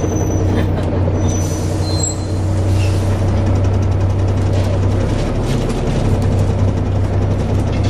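Volvo B7TL double-decker bus's diesel engine running steadily with a low hum, with a continual light rattling and clicking over it.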